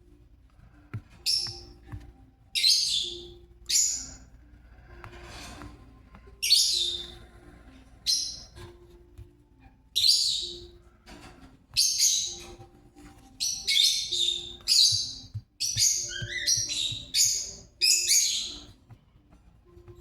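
A parrot giving short, high-pitched chirping calls, about a dozen of them, coming in quicker runs in the second half.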